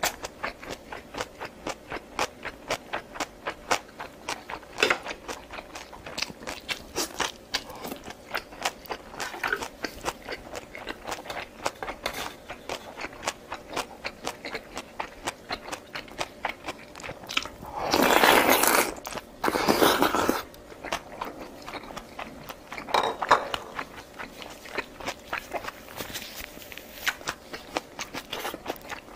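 Close-miked chewing and crunching of food, with sharp mouth clicks about three times a second. Two longer, louder noisy bursts come about eighteen and twenty seconds in, and a shorter one a few seconds later.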